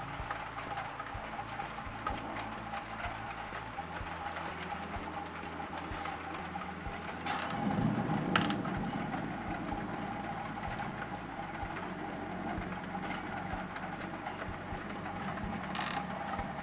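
Thunder rumbling low, swelling about halfway through and fading over a couple of seconds, over a steady hiss of heavy rain.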